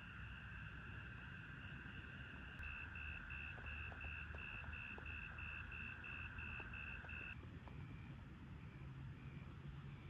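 Faint animal calls: a steady high-pitched trill with a pulsing chirp about twice a second that stops about seven seconds in, over a low rumble.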